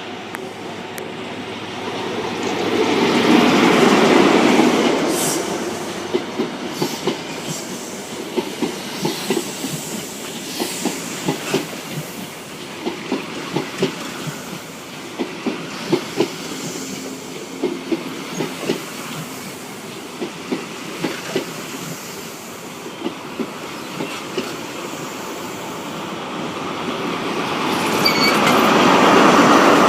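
A train passing on the rails. A swell of noise a few seconds in is followed by a long run of regular clacks as the wheels go over rail joints, and the noise rises again near the end.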